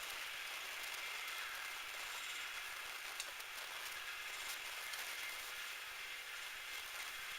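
Metal lathe running, a steady hiss with a few faint ticks.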